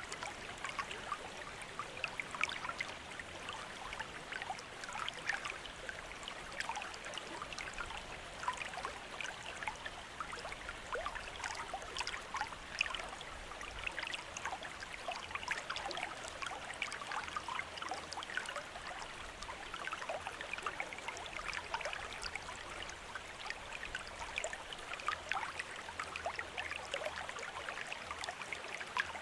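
Water from a bamboo fountain trickling and splashing steadily, a continuous run of small uneven splashes and drips.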